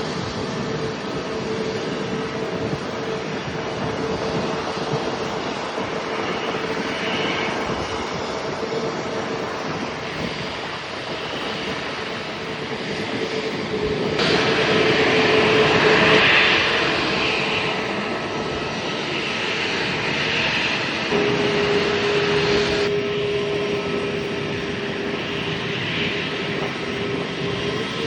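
Aircraft engines running, a steady rushing noise with a held whine. It swells to its loudest about halfway through and shifts abruptly twice.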